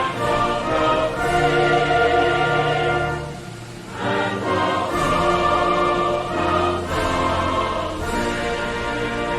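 Orchestral music with a choir singing held chords, with a brief softer passage about three and a half seconds in.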